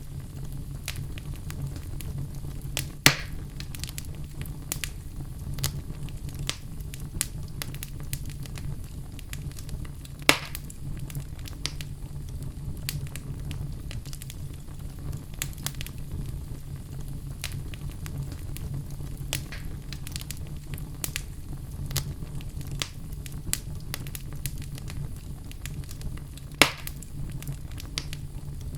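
Wood fire burning in a fireplace: a steady low rumble of flames with frequent sharp crackles of burning logs, and three louder pops spread through.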